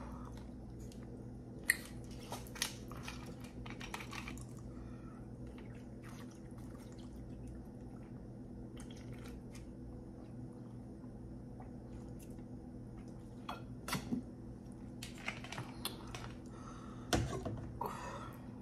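Close-miked mouth sounds of eating: scattered wet clicks and smacks of chewing and swallowing, in clusters with pauses between, over a steady low electrical hum.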